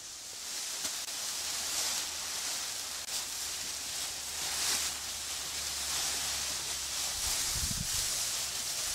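Steady rustling outdoor noise that swells and fades, with a faint low steady hum joining it about a second and a half in.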